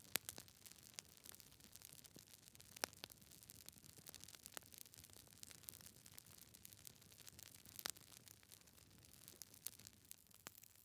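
Wood logs burning in a fireplace, crackling: irregular sharp pops and snaps over a soft hiss, with the loudest pops just after the start, about three seconds in and about eight seconds in.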